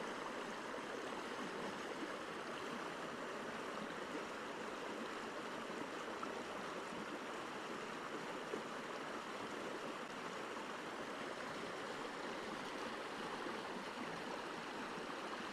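A stream flowing steadily: an even, unbroken rushing of water that starts abruptly.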